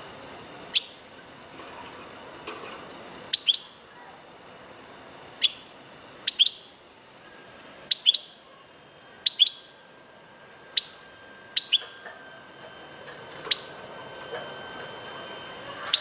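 European goldfinch giving short, sharp chirps that drop in pitch, singly or in quick pairs, every second or two.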